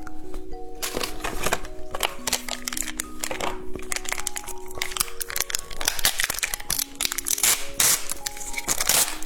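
Plastic candy packaging crinkling and crackling in quick irregular bursts, over background music with a simple melody.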